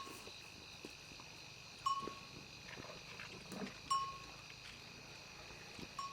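Bell on a grazing water buffalo clanking four times, about once every two seconds, each strike a short pitched ring that dies away quickly.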